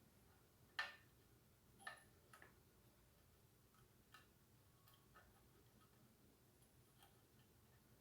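Near silence broken by a few faint, scattered clicks and light taps, the loudest about a second in.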